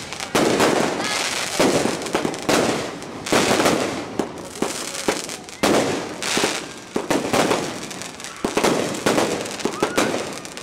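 Aerial fireworks bursting in quick succession, roughly one burst a second, each sudden bang trailing off in a noisy spray before the next.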